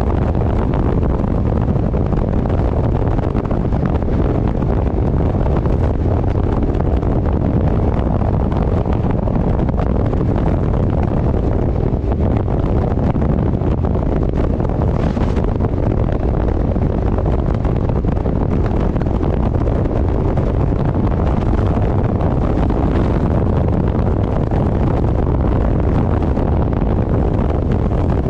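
Loud, steady wind rushing over the microphone of a moving vehicle, mostly a low rumble that never lets up.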